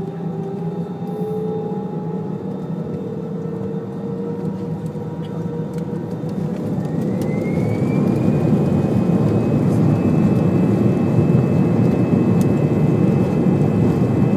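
Airliner's Rolls-Royce jet engines spooling up for takeoff, heard from inside the cabin: a whine rises in pitch about halfway through and then holds, while the engine noise grows steadily louder.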